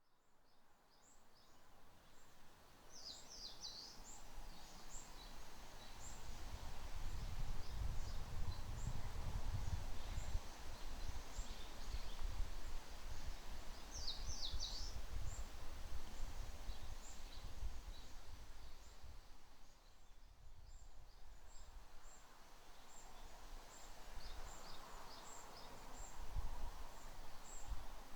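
Wind through a forest canopy, with leaves rustling and gusts buffeting the microphone as low rumbles. Over it, birds give short high chirps, and twice a quick run of falling notes.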